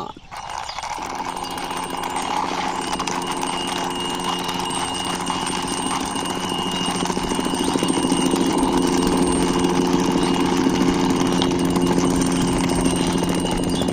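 Toy police helicopter whirring with a steady buzzing hum and hiss while it is pushed along, growing a little louder about halfway through.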